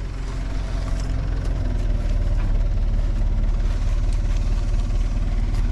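Backhoe's diesel engine running steadily with a rapid, even low throb, a little louder after the first second.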